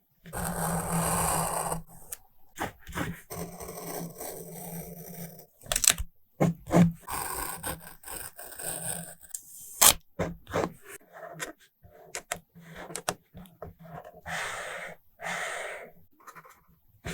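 Journaling materials handled close to the microphone: paper, tape and sticker sheets rustling and scraping, with a few sharp taps or clicks along the way.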